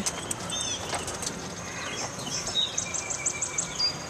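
Songbirds chirping: a few short downward-sweeping chirps about half a second in, then a quick run of high repeated notes around three seconds in.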